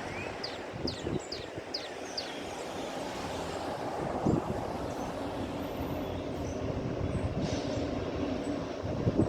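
Norfolk Southern freight train passing: a steady rumble of wheels on rail that slowly grows louder, with sharp clicks near the end.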